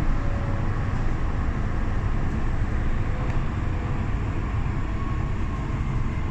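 Docklands Light Railway train running along the track, heard from inside the carriage: a steady low rumble of wheels and running gear with a faint whine above it.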